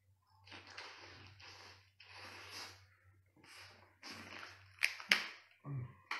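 Close-miked eating of lobster tail meat: chewing and slurping in short wet bursts about twice a second. About five seconds in come two sharp clicks as the lobster tail shell is pulled apart, then a brief low hum of the voice.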